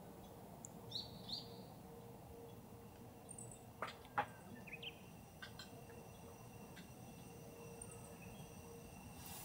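Quiet outdoor ambience with a few short bird chirps, and a couple of sharp taps about four seconds in, the second one the loudest sound.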